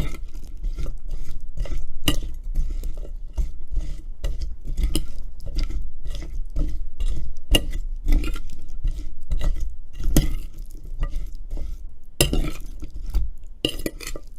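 A utensil stirring and tossing cut potatoes with seasoning in a bowl: repeated scraping and clinking against the bowl.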